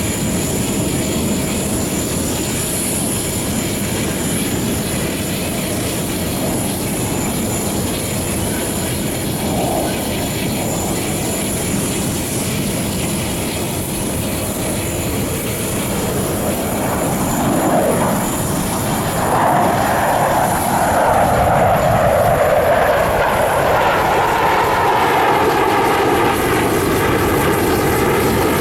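Jet noise from the Russian Knights' Su-30SM fighters: a steady distant roar that swells about two thirds of the way in as the jets come closer, with a sweeping, phasing pitch as they pass.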